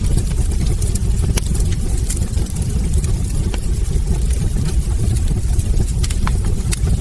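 Wood fire in a fireplace burning with a steady low roar, with sharp crackles and pops scattered irregularly through it.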